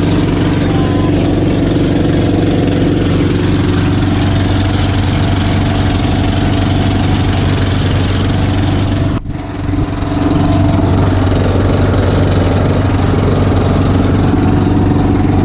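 Small fishing boat's engine running steadily and very noisily, with a brief dip in loudness about nine seconds in.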